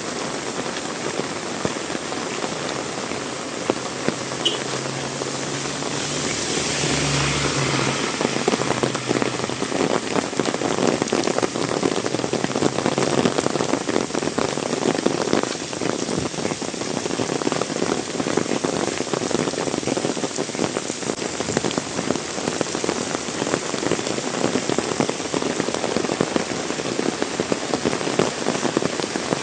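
Heavy rain falling steadily, with dense drops pattering on surfaces, swelling louder for a few seconds near the start. A low steady hum sits under the rain for several seconds early on, then fades.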